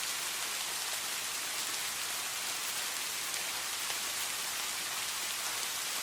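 Steady rain falling, an even hiss with fine ticks of drops hitting surfaces.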